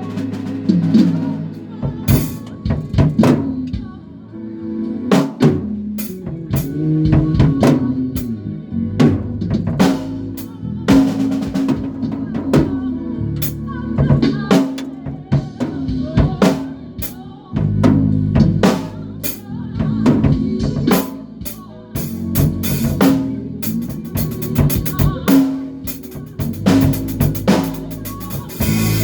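Drum kit and bass guitar playing together: kick, snare and cymbal strikes in a steady beat over held low bass notes that change pitch every second or so.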